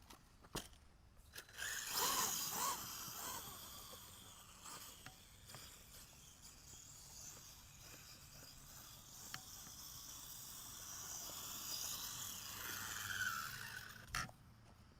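Electric RC monster truck (a custom Axial SMT10 build) driving: a hissing whirr of motor and tyres that comes in about a second and a half in, rises and falls, and dies away near the end, followed by a single sharp knock.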